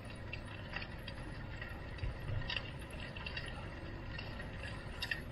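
Bicycle ride heard from the rider: a steady low wind rumble on the microphone, with scattered light clicks and rattles from the bike and a small bump about two seconds in.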